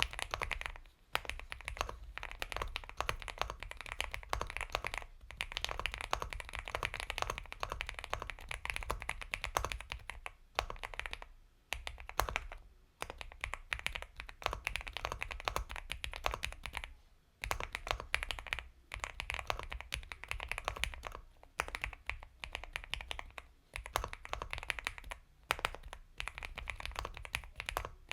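Typing on an Epomaker x Feker Galaxy 80 mechanical keyboard with Gateron Milky Yellow Pro switches: a dense run of soft, creamy keystrokes, broken by short pauses every few seconds.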